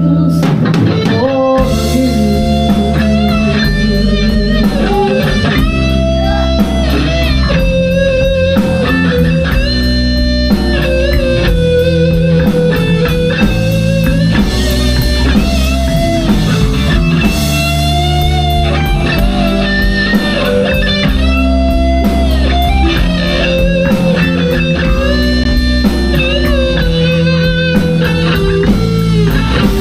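Live blues-rock band playing an instrumental passage: an electric guitar lead of long, bending sustained notes over bass and drums.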